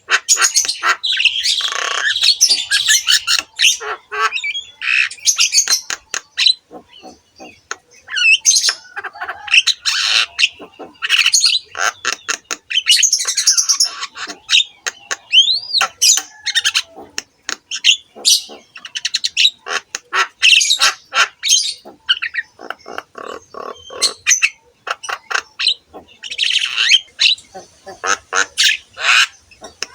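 Javan myna calling continuously: rapid clicking rattles and harsh squawking chatter, with an occasional short rising whistle.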